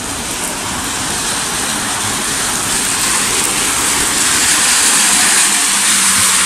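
Heavy rain falling: an even hiss that grows steadily louder over the first five seconds or so.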